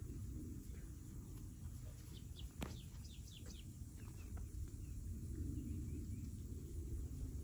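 Quiet outdoor ambience with a steady low rumble. A short run of high bird chirps comes about two seconds in, with a single sharp click among them.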